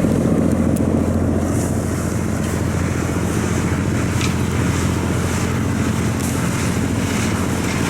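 Diesel engine of a loaded river cargo barge running hard, a steady deep drone made of several low tones that eases very slightly over the seconds.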